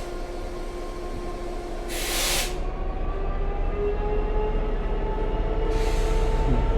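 Diesel train running with a steady engine tone that slowly rises in pitch and grows louder as it gathers speed, with short bursts of hissing about two seconds in and again near the end.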